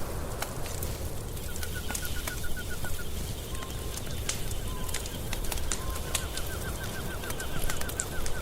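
Wood fire crackling with scattered sharp pops over a low steady rumble. A bird gives a rapid trill of repeated chirps about a second and a half in, and a longer trill from about six seconds on.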